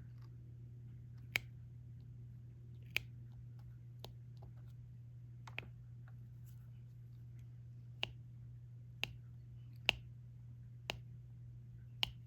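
Diamond painting pen tapping resin drills onto the adhesive canvas: about eight sharp little clicks at uneven spacing, roughly one a second, over a steady low hum.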